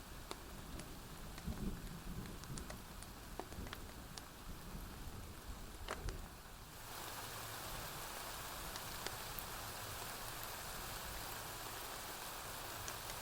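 Steady rain hiss with scattered sharp pops of a crackling wood fire. A low rumble of distant thunder dies away in the first half. About seven seconds in, the rain abruptly turns louder and more even.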